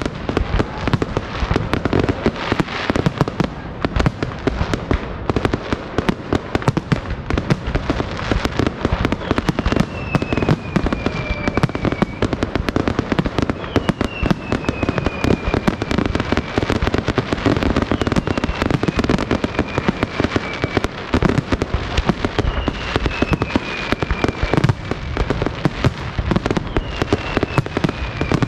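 Aerial fireworks in a dense, continuous barrage of shell bursts and crackling, with about five high whistles that slide down in pitch over the stretch.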